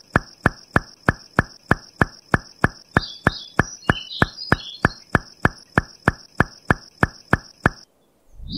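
A steady series of sharp ticks, about three a second, which stop abruptly shortly before the end. Faint chirps sound over the ticking around the middle.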